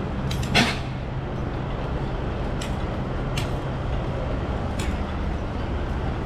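A steady low mechanical hum, with a loud sharp click about half a second in and a few fainter clicks spaced irregularly after it.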